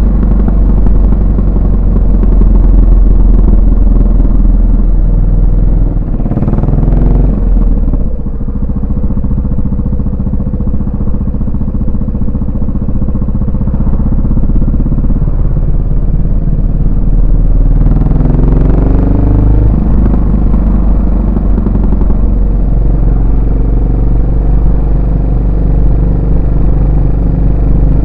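Yamaha SR400's air-cooled single-cylinder four-stroke engine and exhaust running under way. The bike cruises with a steady engine note, and its pitch rises twice as it accelerates, about six seconds in and again near eighteen seconds.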